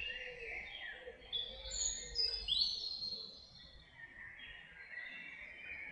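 Several songbirds singing over one another in a run of quick whistled and warbled phrases, loudest about two seconds in.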